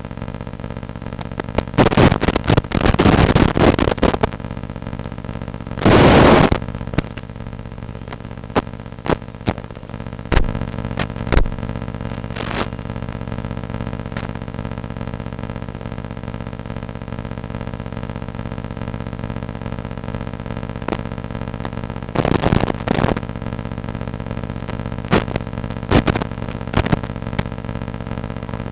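A steady hum of several held tones, broken by loud bursts of static-like noise: one about two seconds in lasting around two seconds, a shorter one about six seconds in, and another around 22 seconds, with scattered sharp clicks between.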